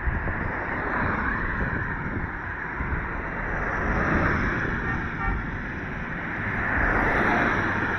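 Road traffic passing: cars going by in a noisy wash that swells and fades twice, with wind buffeting the microphone.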